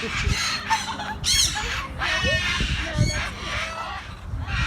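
Captive birds calling, with several loud, harsh squawks in a row.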